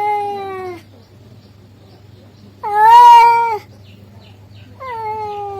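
Male cat meowing to call a female: three drawn-out meows of under a second each, the middle one loudest, each ending with a drop in pitch.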